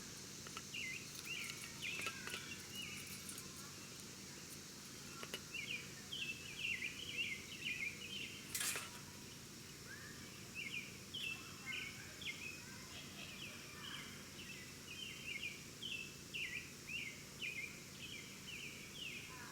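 Small birds chirping in quick runs of short notes, several a second, over a steady high insect drone. A single sharp click comes a little before the middle.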